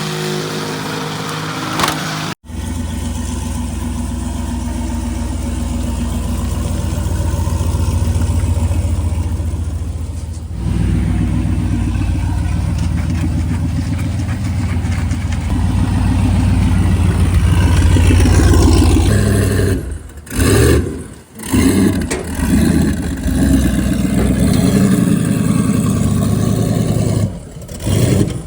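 Turbocharged V8 running on a chassis dyno, building to a long, loud pull. Near the end it breaks into short revs with the throttle lifting in between.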